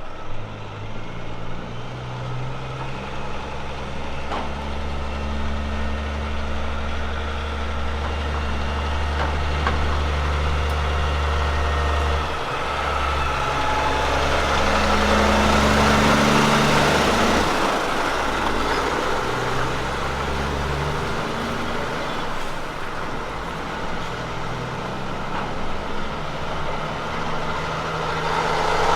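Kenworth truck's diesel engine under load, its engine note holding and then stepping to a new pitch several times as it changes gear, over steady road and tyre noise.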